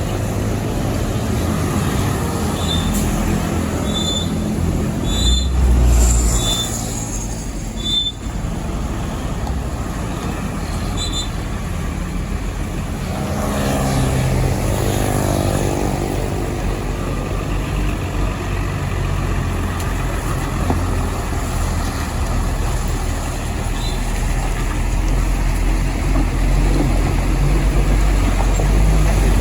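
Heavy trucks driving past on the road: a continuous low diesel rumble with tyre noise, and one engine note swelling and rising in pitch as it passes about halfway through. A few short high chirps sound in the first part.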